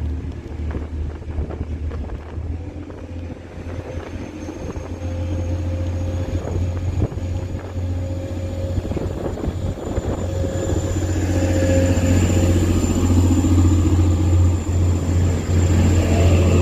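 Class 185 diesel multiple unit pulling away from the platform: a steady low diesel drone that grows louder from about ten seconds in as the engines work harder, with a held mid-pitched tone and a faint high whine above it.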